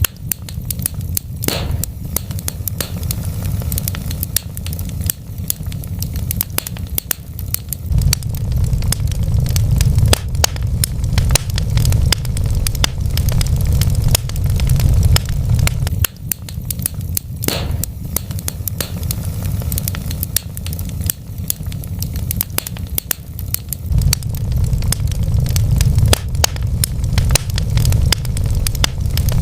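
Wood fire crackling, with frequent sharp snaps and pops over a steady low rumble.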